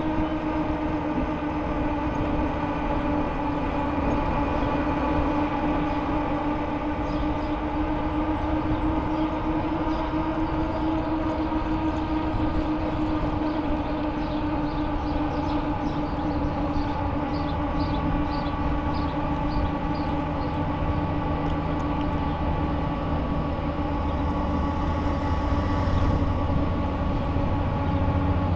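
Bicycle tyres rolling on pavement with a steady hum whose pitch drifts slowly with speed, over a low rumble. A short run of faint, quick high ticks comes near the middle.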